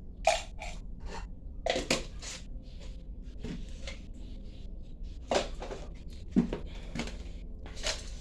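Kitchen utensils and dishes clinking and knocking during food preparation: about five sharp knocks spread out, with lighter scraping between them over a low steady hum.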